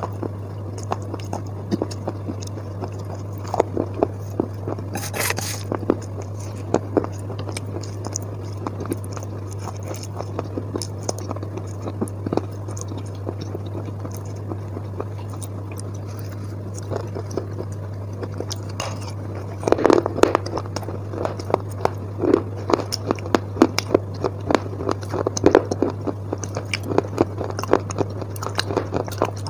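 Chewing of wet chalk paste: sticky, squishy crunches and mouth clicks that grow louder and denser about two-thirds of the way through. A spoon scrapes on the steel plate, and a steady low hum runs underneath.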